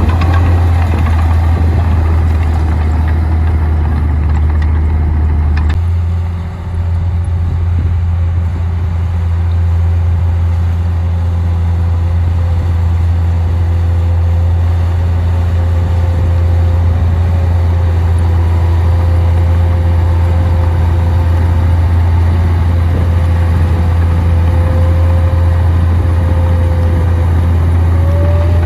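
Komatsu D58P bulldozer's diesel engine running steadily with a heavy low hum. About six seconds in the sound shifts briefly, and a thin steady whine joins the engine from then on.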